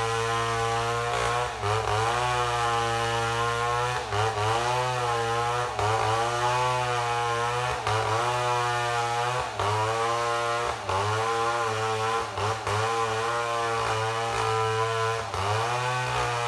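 Chainsaw running steadily under load while milling a mahogany log lengthwise into boards, its engine pitch dipping briefly every second or two as it bogs in the cut.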